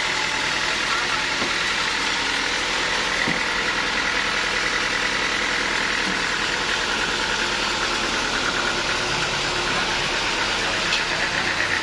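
Sawmill machinery running steadily, a continuous engine-like hum with no change in load.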